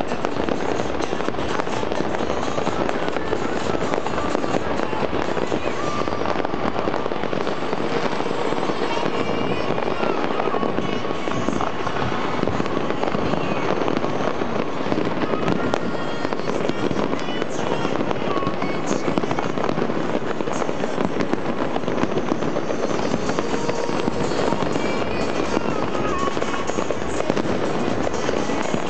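Fireworks display going off without a break: a dense, steady barrage of overlapping bangs and crackling bursts.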